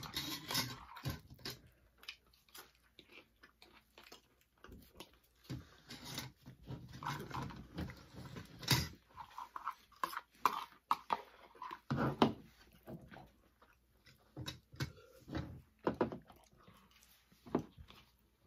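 Close-up chewing and wet mouth sounds of people eating spaghetti and garlic bread, with scattered short clicks and scrapes of a fork in a plastic bowl.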